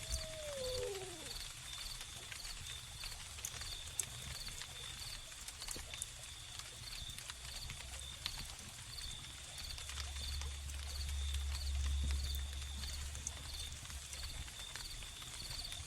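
Wood fire crackling with sharp scattered pops under crickets chirping in a steady, evenly pulsing rhythm. A short falling animal call sounds at the very start, and a low rumble swells about ten seconds in and fades a few seconds later.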